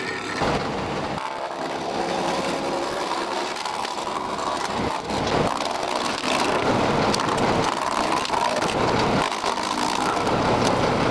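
Tractor-PTO-driven 3-point hitch wood chipper chewing up branches. It gives a dense, crackling shredding noise over the machine's steady running hum.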